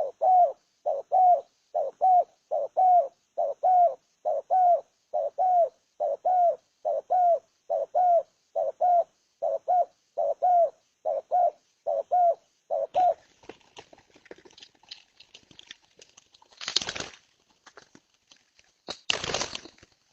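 A dove cooing: a steady, regular series of short coos, a little more than one a second, that stops about two-thirds of the way through. Scattered soft clicks and rustles follow, with two short noisy bursts near the end.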